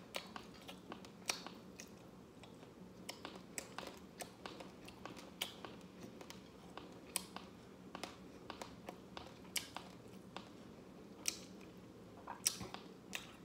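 Close-up chewing of crusty scorched rice (dukot) with the mouth closed: irregular short crunching clicks and mouth sounds, over a faint steady hum.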